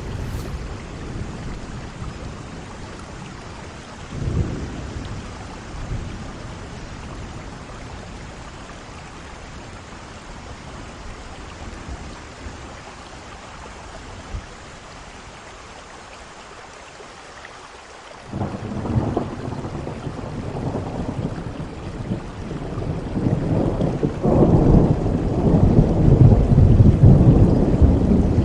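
Steady rain with thunder: a short low rumble about four seconds in, then a lull, then thunder breaking in suddenly about two-thirds of the way through and building into long, heavy rumbling, the loudest part, near the end.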